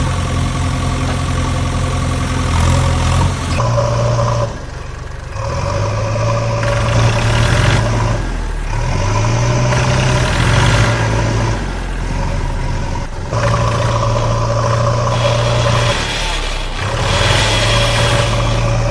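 Vehicle motors running under load as a stuck tractor is pulled free. A steady hum shifts in pitch up and down every few seconds, with brief drops.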